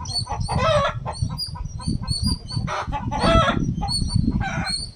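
Birds calling: many short high chirps throughout, with louder harsh pitched calls about half a second in, around three seconds in and near the end.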